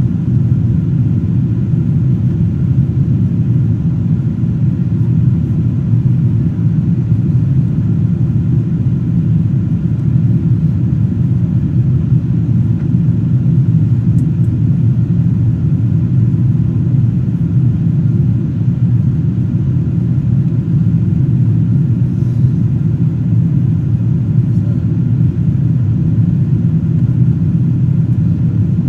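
Steady low cabin drone inside a Boeing 777-200ER airliner in flight: engine and airflow noise heard from a window seat, unchanging throughout.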